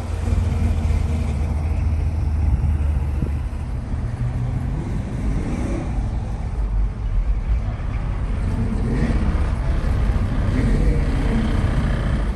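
A car engine running, a steady low drone with no clear change in pitch.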